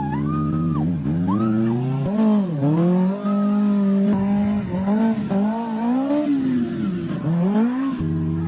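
Motorcycle engine revving, its pitch holding steady for a stretch and then dipping and climbing back again several times as the throttle is worked.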